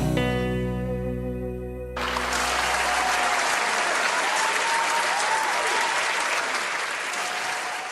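The song's final held chord rings and fades for about two seconds. Then audience applause breaks out suddenly and carries on steadily to the end.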